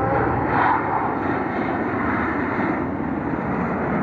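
Airplane engine noise from an air show aircraft passing overhead: a steady, loud drone with no break.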